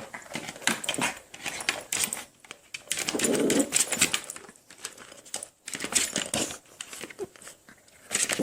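A dog barks once, about three seconds in, amid a run of quick clicks and taps.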